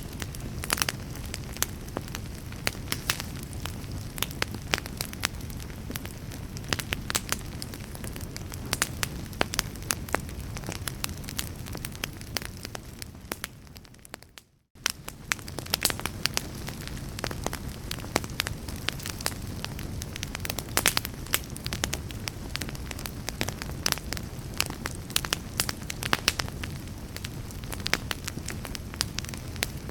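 Wood fire crackling and popping in a fireplace, with many sharp pops over a steady low rumble of the flames. About halfway through, the sound fades out to silence for a moment, then comes back in.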